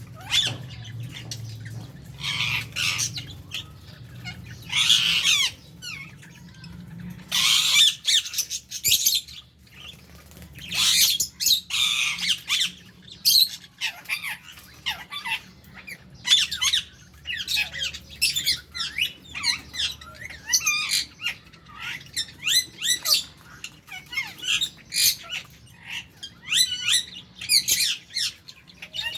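A flock of lovebirds in an aviary squawking and chirping continually, with harsh squawks in the first half giving way to quick, overlapping chirps later on.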